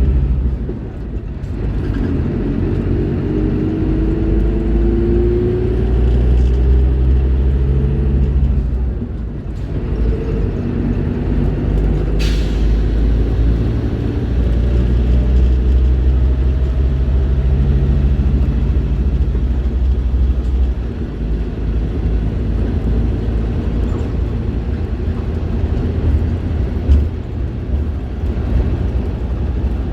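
Scania K310IB bus's five-cylinder diesel engine running under way, its note dropping off briefly about a second in and again about nine seconds in. A short, sharp hiss of compressed air about twelve seconds in.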